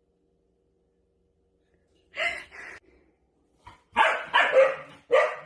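Dog barking: a single bark about two seconds in, then a quick run of three or four barks near the end.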